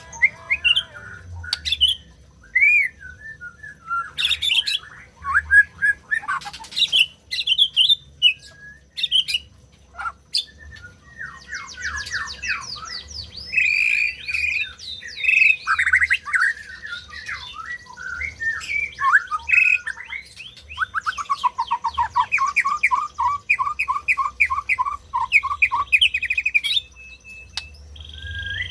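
White-rumped shama singing a varied song of whistled phrases and harsh squawky notes, sparse at first, then dense and continuous from about halfway, with a run of rapidly repeated notes about three a second near the end.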